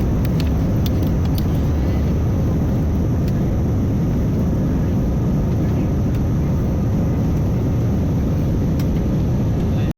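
Airbus A320 jet engines running at takeoff power: a steady, loud low rumble with no rise or fall, with a few faint clicks on top.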